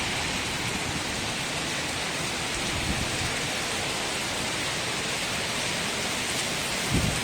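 Steady, even rainfall hiss. A low rumble of thunder starts near the end.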